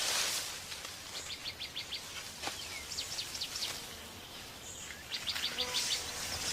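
Forest ambience with a bird giving a rapid run of about six high chirps, repeated three times, over a steady high hiss.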